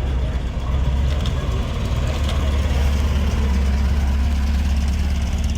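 A car engine idling close by with a steady, deep low rumble.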